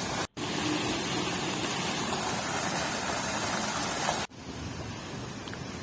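Steady rushing outdoor noise with no clear pitch. It cuts out for an instant near the start and drops abruptly to a quieter hiss about four seconds in, at edit cuts.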